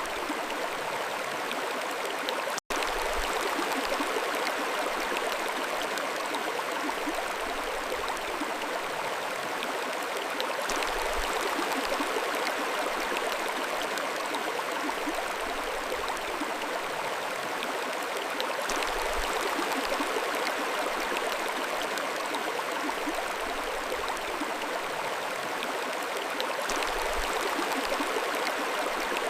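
Mountain stream flowing: a steady, even rush of running water. About three seconds in, the sound cuts out for a split second.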